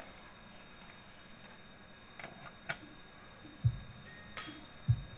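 A few sharp clicks and several dull low thumps over a quiet background, the knocks and bumps of sound equipment and cables being handled.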